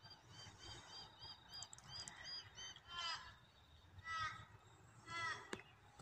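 Birds calling: a run of short, high notes repeated about three times a second, followed by three harsher calls, each falling in pitch, about a second apart.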